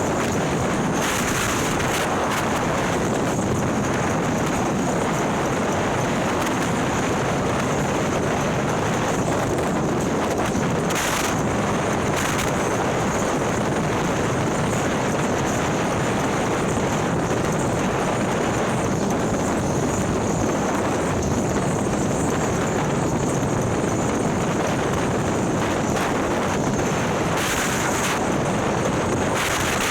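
2017 Harley-Davidson Ultra Limited with a 130ci Milwaukee-Eight engine and ThunderHeader exhaust cruising at speed: a steady rush of wind over the onboard microphone mixed with engine and road noise, with a few brief louder gusts.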